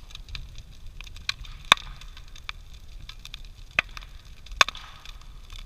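Large wood bonfire burning, crackling steadily over a low rumble, with several loud sharp pops, the loudest about a second and a half in and two more near the end.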